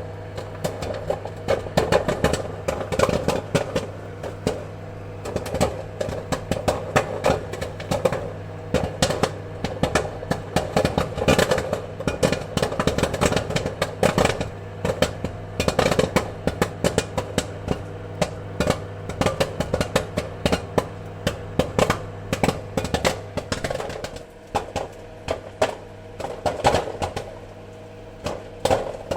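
Popcorn kernels popping: many quick, irregular pops, bunched into flurries that thin out briefly near the end before picking up again, over a steady low hum.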